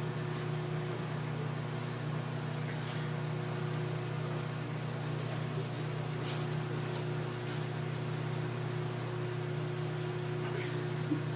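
Microwave oven running with a steady low hum, heating a glow stick. A few faint short crackles come through the hum.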